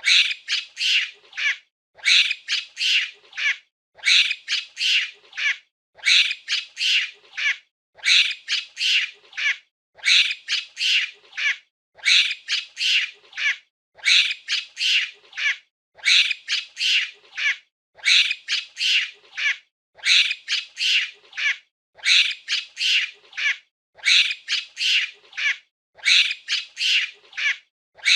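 Monkey calls: a burst of several high, squeaky chattering calls lasting about a second and a half, followed by a short silence. The same burst repeats identically every two seconds, a looped sound-effect clip.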